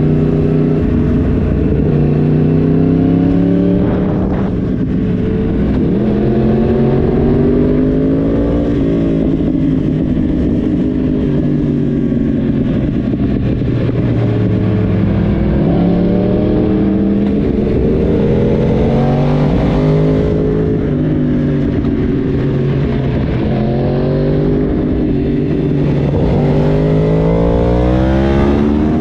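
Yamaha YZF-R1's crossplane inline-four engine heard from on board, its exhaust note climbing and dropping several times as the throttle is opened and closed and gears change.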